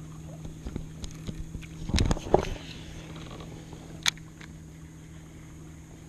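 Kayak sounds: a few small knocks and a louder cluster of thumps and splashy noise about two seconds in, then a single sharp click about four seconds in, over a faint steady hum.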